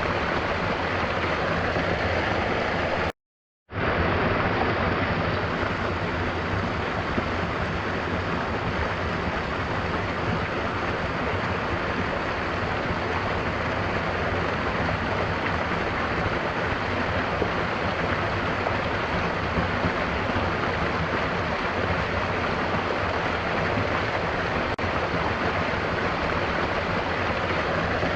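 Steady rush of a waterfall mixed with gentle rain. It drops out into silence for about half a second a little after three seconds in, then resumes abruptly.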